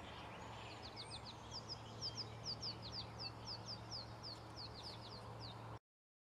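A small bird giving a rapid series of short, high chirps, each sliding downward, over a faint low steady hum. The sound cuts off abruptly near the end.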